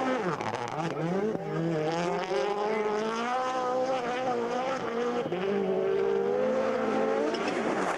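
Rally car engine at high revs as the car drives hard. The pitch dips sharply about half a second in, climbs back and holds high, then falls away near the end.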